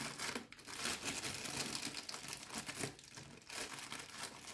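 Irregular crinkling and rustling of a plastic packet being handled and opened, as chili powder is fetched for spooning out.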